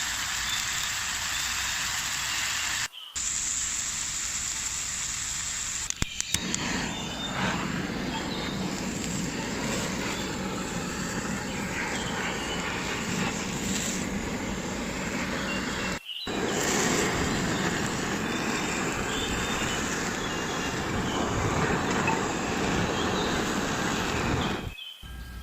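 Steak sizzling in a frying pan over a campfire, a steady hiss with a few sharp pops, cutting out briefly a few times.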